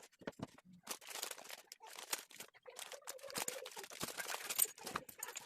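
Crackling and crinkling of a thin sheet being handled, typical of self-adhesive laminate film (kertasive) or its backing paper. The crackling runs on in a dense stream from about a second in.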